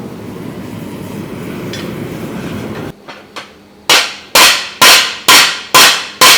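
A steady rushing noise stops suddenly about three seconds in. After two light taps, a hand hammer strikes the steel frying-pan blank on the anvil six times in a loud, even rhythm of about two blows a second, each blow ringing as it dies away.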